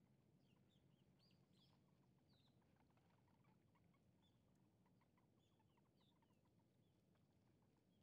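Near silence with faint, scattered high bird chirps over a low, steady rumble.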